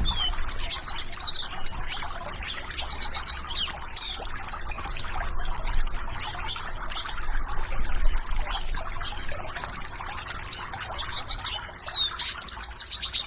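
Small birds chirping in quick rising and falling notes over the steady trickle of running water, with the busiest runs of calls near the start and again near the end.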